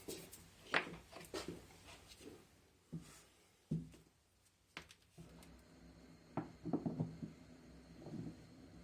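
Scattered clicks and knocks of washing-machine parts being handled and fitted, about one every second or so, with a small cluster of knocks near the end.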